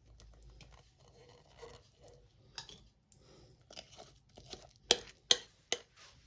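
Quiet kitchen handling noises as the baking mix is moved into a bigger pot: soft rustling and scraping, then several sharp knocks of kitchenware in the last few seconds.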